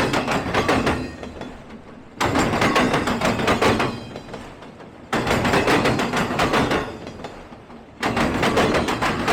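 Freight train rolling slowly past, its wheels clattering over the track: a burst of sharp clanks starts abruptly about every three seconds, as each pair of coupled railcar trucks rolls by, and fades before the next.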